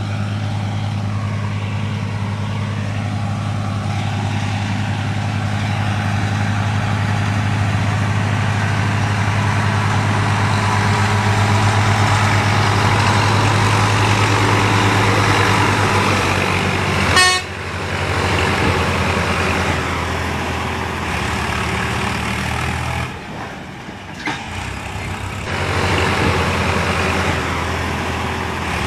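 Tractor diesel engine running steadily under load, pulling a fully loaded trolley. A short horn toot sounds a little past halfway, after which the engine note shifts and briefly drops off before picking up again.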